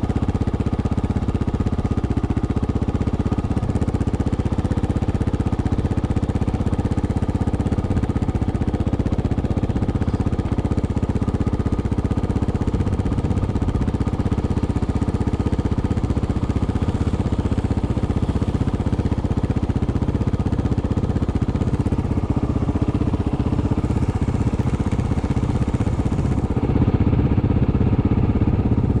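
Single-cylinder dirt bike engine running steadily at an even pitch, heard from the rider's helmet, a little louder near the end.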